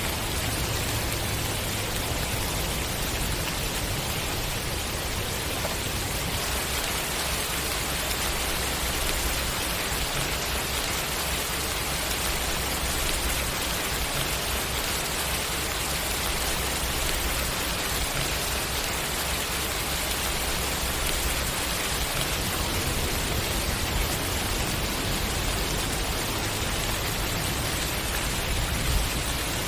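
Steady, dense rainfall pattering on surfaces, with a faint low rumble that comes and goes and a single sharper drop near the end.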